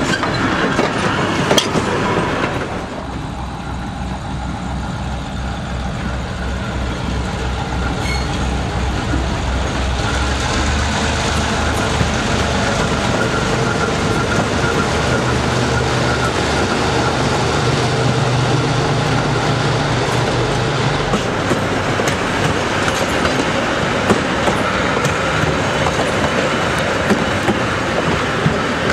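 Steel passenger cars rolling past close by, wheels rattling on the rails. After about three seconds comes the EMD E5 diesel of the streamlined Nebraska Zephyr: its engines throb as it approaches, then drone as it passes, and its stainless-steel passenger cars roll by on the rails for the rest of the time.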